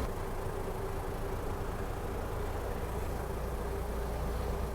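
1925 Autocar Model 27K three-ton truck running as it is driven, a steady low rumble with a faint steady hum above it.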